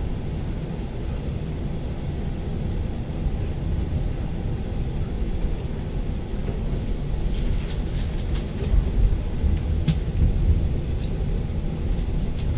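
Steady low rumble of an ŁKA 36WED electric multiple unit running along the track, with a few sharp clicks and a louder stretch about eight to ten seconds in.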